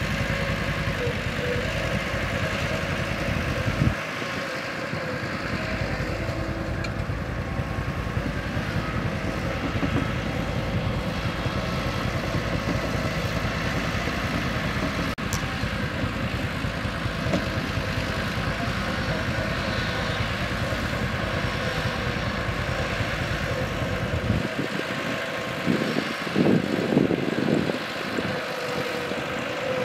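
Diesel engine of a Mitsubishi BD2G bulldozer running steadily. Near the end the low rumble drops away and a few louder, uneven surges come through.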